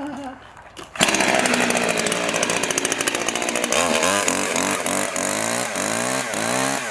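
Two-stroke chainsaw starting about a second in after being pull-started, then running and being revved up and down in quick repeated blips, about three a second. The chain brake is on.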